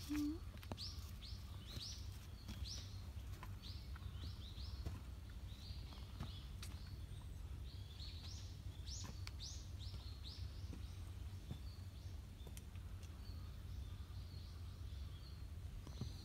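Small birds chirping, many short high calls in quick series that thin out after about twelve seconds, over a low steady rumble.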